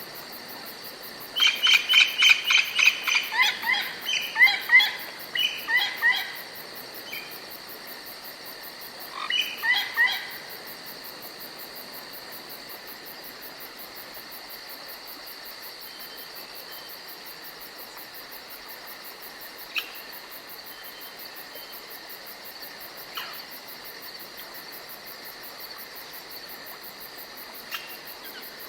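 Crickets trilling steadily in the forest, with loud runs of rapidly repeated animal calls about a second and a half in and again near ten seconds.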